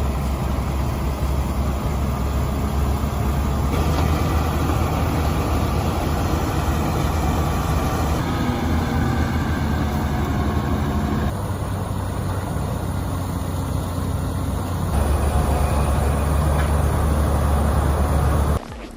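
Steady low rumble of a heavy engine, like a truck's, changing abruptly in level and tone every few seconds.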